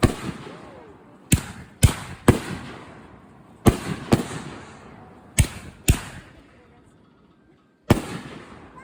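Aerial consumer fireworks going off: about nine sharp bangs, mostly in pairs about half a second apart, each with a trailing rumble that dies away. A short lull comes before a last bang near the end.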